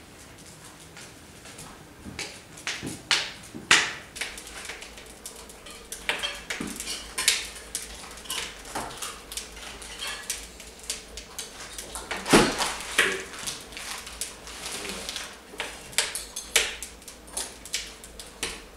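Metal spoons clinking and scraping against metal camp pots as people eat: irregular clicks and knocks, with one louder knock about twelve seconds in.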